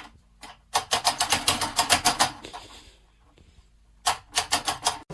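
A rapid run of sharp clicks or taps, about eight a second, in two bursts with a pause between them.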